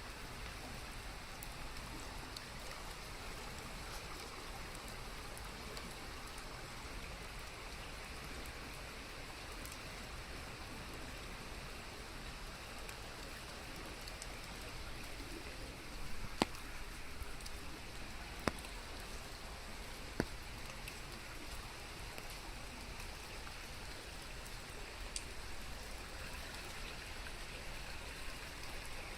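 Steady rain, an even hiss, with three sharp taps about halfway through.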